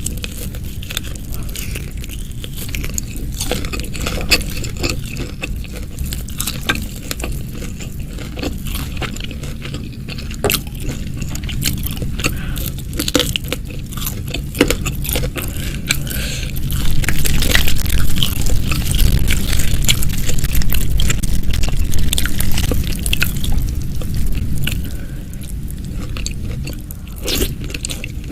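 Close-miked chewing and crunching of food, with many small crackles and wet bites. It grows louder for several seconds past the middle.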